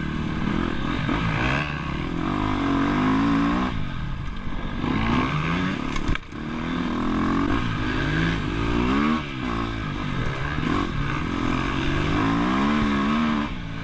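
Dirt bike engine revving hard and backing off over and over, its pitch climbing and dropping several times as it is ridden on the throttle, with a brief knock about six seconds in.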